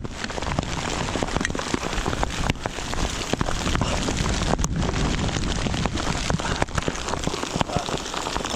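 Heavy hail pelting down: a dense, steady patter of hailstones with many sharp separate hits.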